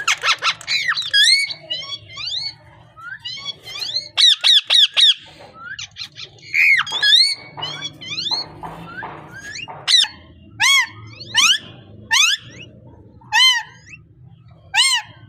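Parrot calling: fast squawks and whistled notes, then a series of separate rising-and-falling calls in the last few seconds.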